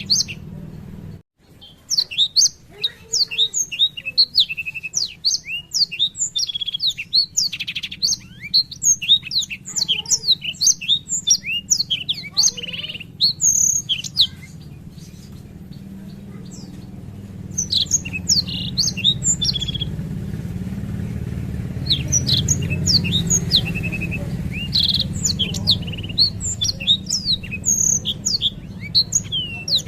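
Black-throated canary singing a long rolling song of rapid high chirps and trills, broken by a couple of short pauses, over a steady low hum.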